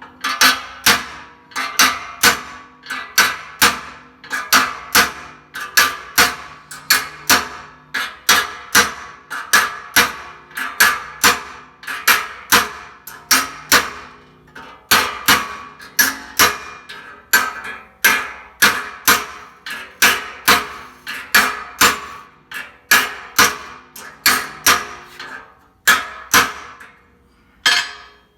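Body hammer striking a sheet-steel patch panel held on a dolly: a long run of sharp, ringing blows at about two a second, with a brief pause about halfway through and another near the end, as the metal is shaped.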